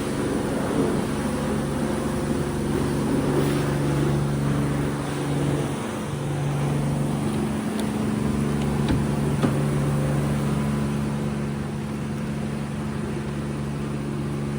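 Steady low mechanical hum, like a running engine or machine, with a few faint clicks about halfway through.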